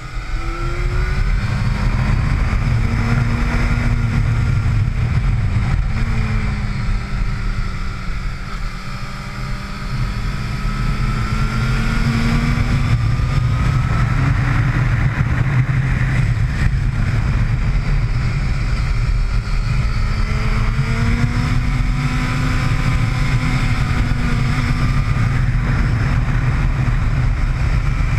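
Sport motorcycle engine at speed on a race track, the revs climbing and falling repeatedly through acceleration, shifts and braking, with a sharp drop in revs about six seconds in. A heavy low rumble runs under the engine note.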